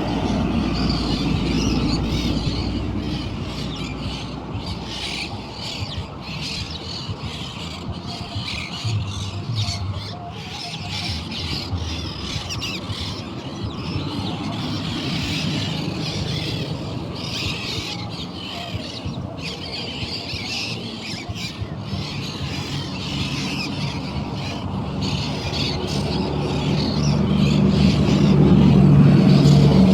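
Many birds chirping and squawking continuously, a dense chatter of overlapping high calls. A low hum builds up and grows louder near the end.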